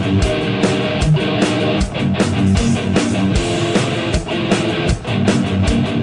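Electric guitar played through an AMT California Sound preamp pedal, riffing and strumming chords over a drum beat with a steady kick about twice a second.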